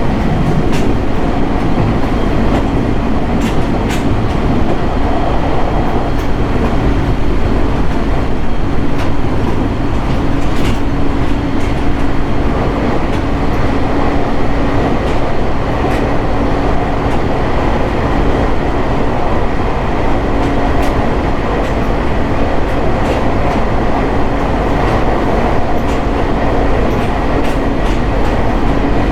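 JR East 701 series electric train running at a steady speed. Wheels rumble on the rails under a steady motor hum, with occasional clicks from the rail joints.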